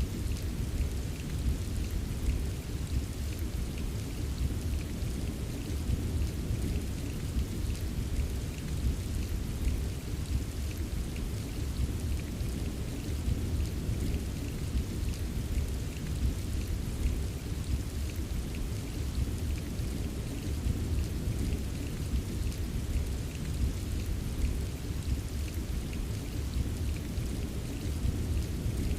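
Steady rain ambience: an even rush of rain, deepest in the low end, with scattered small drop ticks over it and no breaks.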